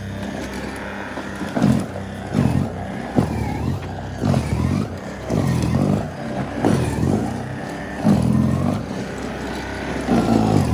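Battery-powered snowblower running through heavy, wet snow, its motor pitch dipping and recovering again and again as it labours under the load.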